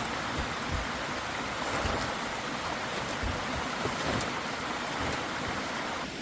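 Steady rushing outdoor noise with irregular low thumps of wind buffeting the microphone.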